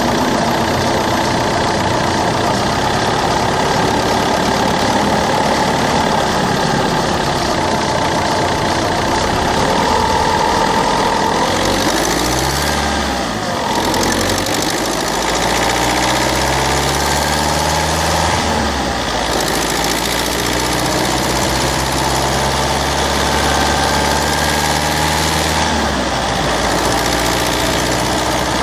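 Citroen C3's 1.4 HDi DV4TD four-cylinder turbodiesel engine running. It holds fairly steady at first, then its pitch dips a little before halfway, climbs, falls back sharply, and climbs again, with another change near the end.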